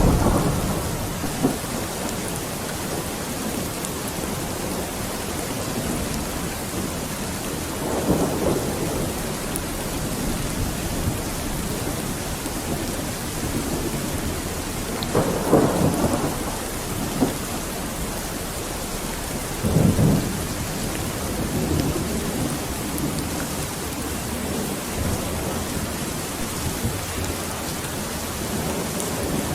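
Steady rain falling, with short rumbles of thunder: one at the start, then three more at roughly eight, fifteen and twenty seconds in.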